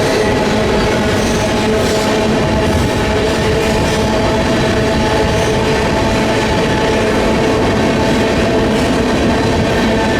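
Freight train rolling past: a steady loud rumble of cars on the rails, with a few steady ringing notes held above it.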